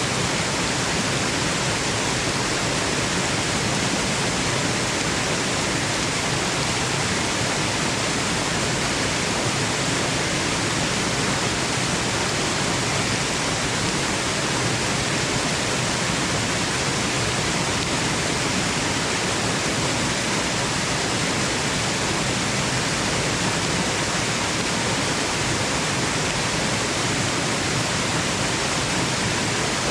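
Waterfall: a steady, even rush of falling water, unchanging throughout, used as white noise for sleep.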